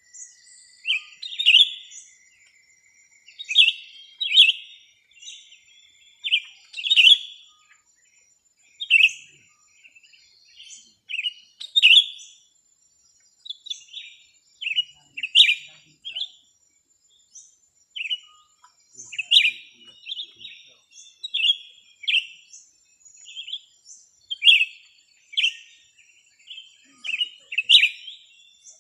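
Small birds chirping in short, sharp calls, one every second or two, over a faint steady high-pitched whine.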